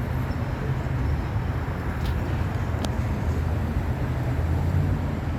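Steady low rumble of road traffic on a freeway ramp, with two faint ticks about two and three seconds in.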